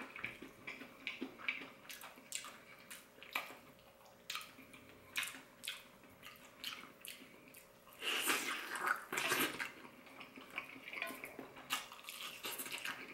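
Close-up mouth sounds of someone eating sauce-coated crispy fried chicken: wet chewing and smacking with many small crackles, and louder crunchy bursts about eight and nine seconds in.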